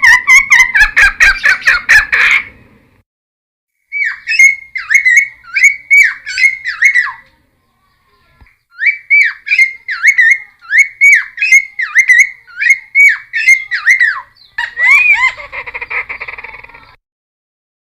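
Cucak timor (friarbird) singing loudly in phrases of repeated sharp, downward-sweeping whistled notes, about two to three a second, with short pauses between phrases. Near the end a harsher, rougher phrase follows, then the song stops.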